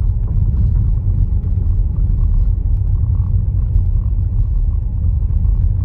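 Steady low rumble of a car driving on a snow-covered road, heard inside the cabin: tyre and road noise with engine hum.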